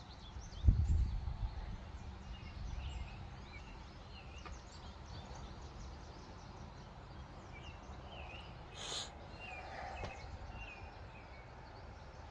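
Many small birds chirping and twittering throughout. A loud low thump and rumble comes about a second in, and a brief rustle near nine seconds.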